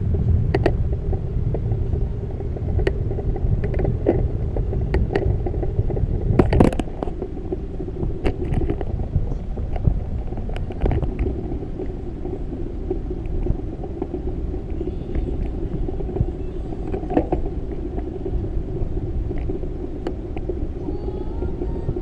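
Steady low rumble with scattered sharp clicks and rattles, the noise of travel on the move; a louder burst of noise comes about six and a half seconds in.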